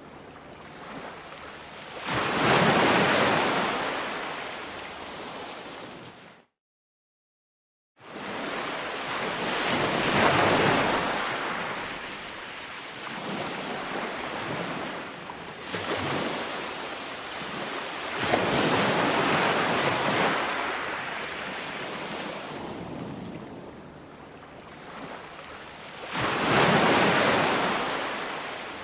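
Ocean waves breaking on a shore, one after another: each wave swells into a loud wash of surf and then fades as it runs out, about five times. Around six seconds in, the sound cuts out completely for about a second and a half before the surf resumes.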